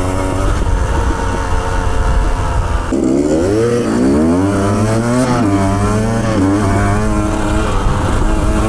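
Motorcycle engine running on the move, with wind rumbling on the microphone. About three seconds in the engine note drops, then climbs steadily as the bike accelerates, and settles into a steady note for the rest.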